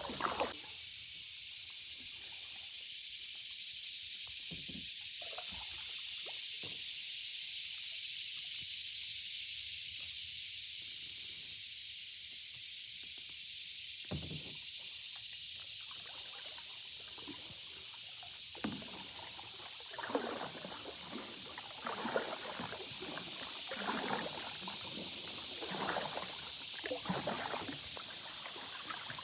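Canoe paddling: paddle strokes dipping into the water with small splashes and drips, scattered in the first half and coming frequently in the second half, over a steady high hiss.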